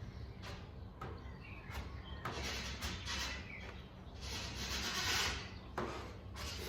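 Spreader scraping body filler across the rear guard panel, with two longer scraping strokes in the middle and a few light clicks, over a low steady hum.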